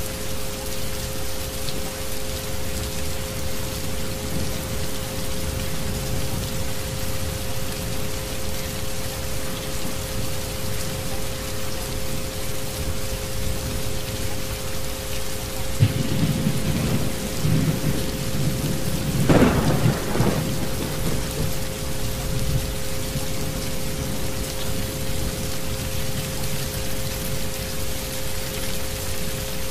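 Steady rain with a roll of thunder past the middle, building to a sharp crack and rumbling away. Two steady tones, the isochronic frequencies, sit over the rain.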